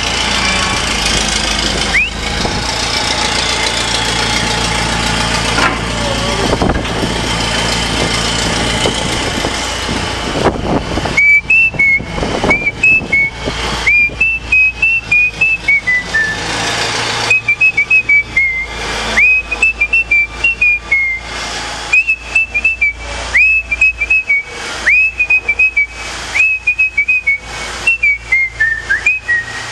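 A steady engine-like rumble, then, from about a third of the way in, a person whistling a tune in short, high, wavering notes with brief gaps between them.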